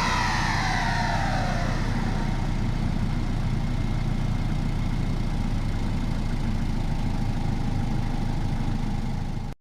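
Peugeot 206 2.0 HDI turbodiesel engine coming down from a rev, a high whine falling away over the first second and a half, then idling steadily; the sound cuts off suddenly near the end.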